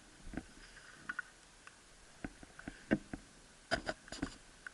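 Scattered light clicks and knocks, a dozen or so short sharp sounds at uneven intervals, clustered near the end, over a faint steady high tone.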